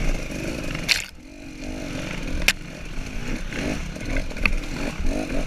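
KTM 300 XC's two-stroke single-cylinder engine revving up and down as the dirt bike is ridden along a trail. The throttle is shut briefly about a second in. Three sharp knocks, spread through the clip, stand out over the engine.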